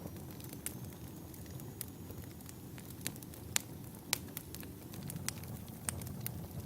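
Wood fire burning in a fireplace, crackling with irregular sharp pops and snaps over a low, steady rumble; the loudest snaps come in the middle.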